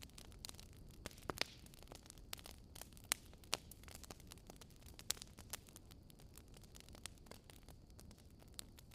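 Wood fire crackling: scattered sharp pops and snaps at irregular intervals, several strong ones in the first half, over a low steady rumble of burning.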